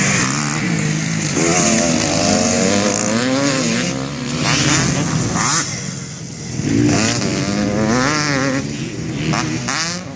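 Motocross dirt bike engines revving on a track. The engine pitch rises and falls repeatedly with the throttle, and at times more than one bike is heard at once.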